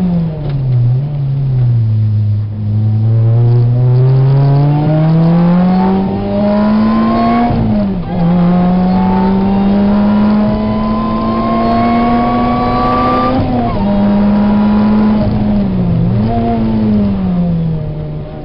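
Lotus Exige engine heard from inside the cabin while lapping a race track. The pitch falls as the car slows at the start, then climbs steadily under acceleration, dips sharply at a gear change about eight seconds in, and climbs again. It drops off again a little after thirteen seconds and rises and falls near the end.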